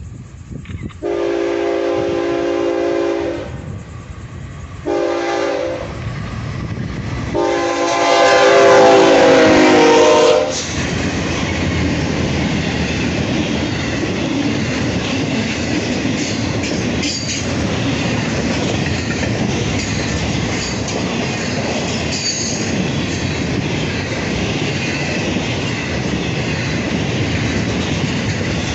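Train horn sounding three blasts, long, short and long, the last one dropping in pitch as the locomotive passes. Then the train rolls by with steady wheel and rail noise.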